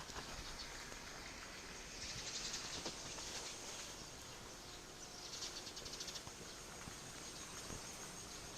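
Insects trilling in fast high-pitched pulses, swelling louder about two seconds in and again about five seconds in, over a steady soft hiss of light morning rain.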